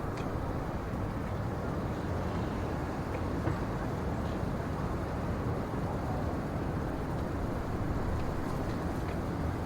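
Steady low rushing ambience of wind in a snowy pine forest, even throughout, with a few faint soft ticks.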